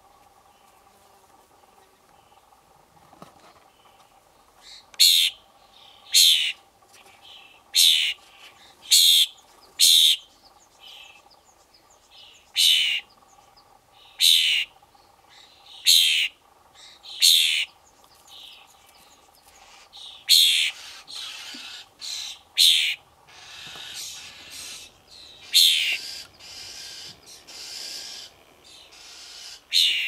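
A fledgling songbird's rasping begging calls: short, harsh hisses repeated about once every one to one and a half seconds, starting about five seconds in, with softer rasping between them in the second half.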